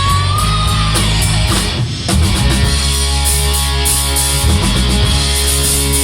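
A rock band playing live, loud distorted electric guitars over a drum kit. A held high lead note fades about a second in, the music drops briefly just before two seconds, then the full band comes back in.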